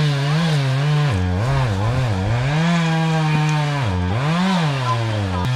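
Small dirt bike engine running and being revved, its pitch rising and falling repeatedly with the throttle.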